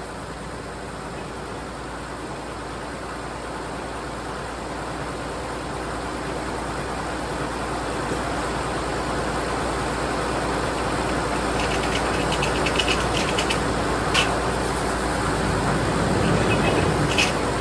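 Case diesel tractor engine running steadily while powering the sawmill, growing gradually louder, with a few sharp clicks and rattles in the last few seconds.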